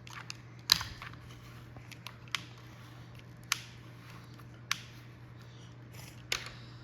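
Plastic toy excavator being worked in kinetic sand: a handful of sharp, scattered clicks, the loudest about a second in, over a faint steady low hum.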